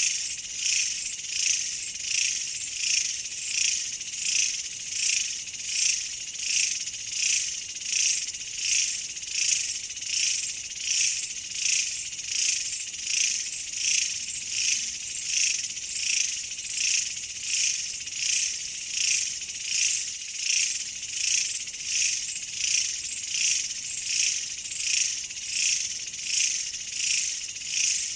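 Insect chorus, high-pitched and shrill, swelling and fading in a steady rhythm about once a second.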